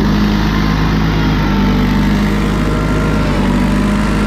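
Steiner tractor mower's engine running steadily while mowing, a constant hum.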